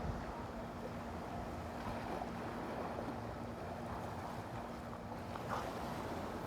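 Steady outdoor rush of wind and surf, with a faint steady hum underneath.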